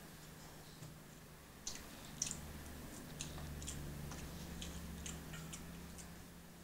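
Faint chewing of a mouthful of pho noodles, with small scattered wet clicks, over a low steady hum.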